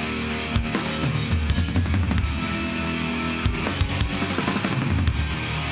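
Live hardcore band playing an instrumental passage: heavily distorted guitars and bass holding low chords over a pounding drum kit with bass drum, snare and cymbals.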